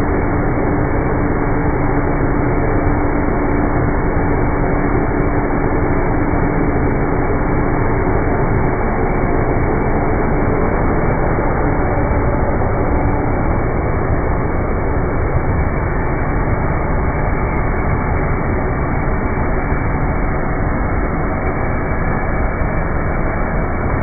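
Dirt Devil Ultra Vision Turbo upright vacuum cleaner running steadily over carpet, its motor giving a constant loud rush, with a steady hum in the first half that fades out around the middle.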